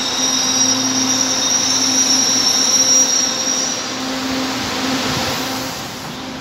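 LRT Line 2 electric train pulling into the platform, with a steady high whine over wheel-on-rail noise. The whine dies away about four seconds in as the train comes to a stop.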